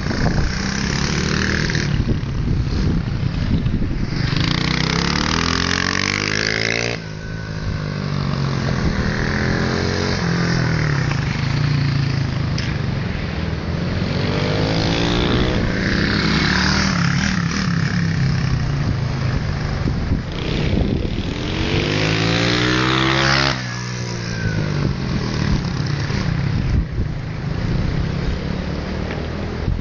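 Motorcycle engines running as the bikes lap around, the engine note rising and falling; twice, about seven seconds in and again near two-thirds of the way through, a bike passes close by with a sudden drop in pitch.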